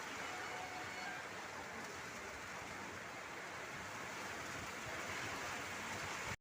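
Steady hiss of falling rain, even throughout, with no thunderclap.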